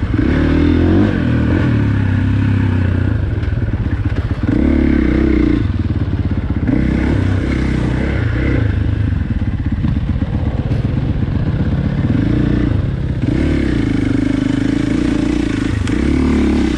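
Dirt bike engine running under changing throttle, its pitch rising and falling every second or two as the bike is ridden over rough ground.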